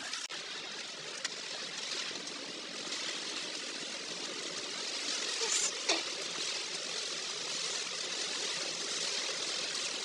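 Steady rushing of a river swollen with typhoon rain, the water running high and fast.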